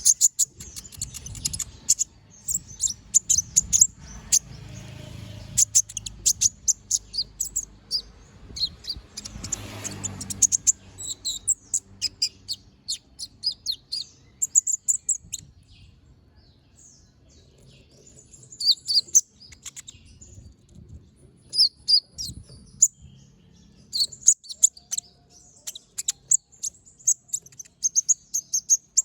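Kolibri ninja (konin) sunbird singing a fast chattering song of sharp, high-pitched notes in rapid runs and bursts, with a short lull about halfway through.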